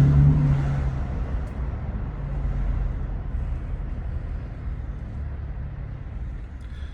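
2019 Toyota Tacoma TRD Pro's 3.5-litre V6 running through an MBRP 3-inch cat-back exhaust while driving: a loud low exhaust drone for about the first second that fades to a quieter, steady low rumble.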